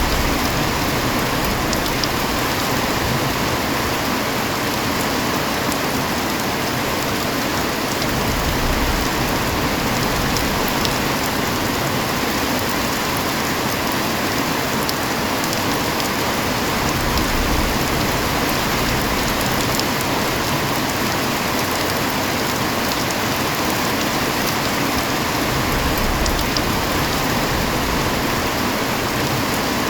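Heavy rain falling steadily: a dense, even hiss with scattered individual drops ticking through it.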